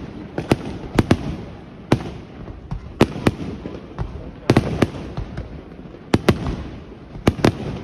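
Aerial fireworks exploding: an irregular string of sharp bangs, some in quick clusters of two or three, over a continuous rumble.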